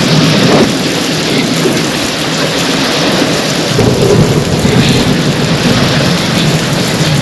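Steady rain with the low rumble of thunder underneath.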